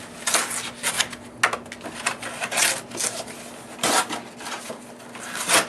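Cardboard tabs being torn off the open end of a soda-can box: a string of short ripping and crinkling noises, the loudest rips about four seconds in and near the end, over a faint steady hum.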